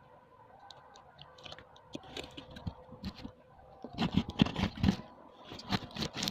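Hands handling parts of a split air conditioner's indoor unit: a run of clicks, knocks and rustles, busiest about four to five seconds in and again near the end.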